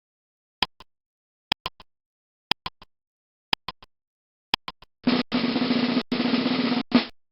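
Snare drum sound effect: five quick groups of two or three strikes about a second apart, then a snare drum roll of about two seconds that ends on a final hit.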